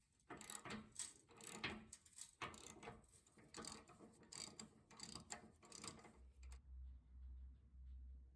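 Faint, irregular clicking of a ratchet wrench as bolts are run in to fasten brackets under the truck; the clicking stops about six seconds in, leaving a faint low hum.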